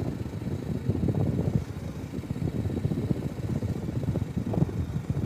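Riding noise on a BMW G310 GS motorcycle: wind rumbling over the microphone, with the bike's single-cylinder engine running underneath.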